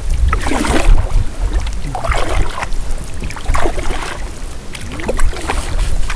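Canoe paddle strokes splashing and pulling through the water, four strokes about every second and a half, over a steady low rumble of wind on the microphone.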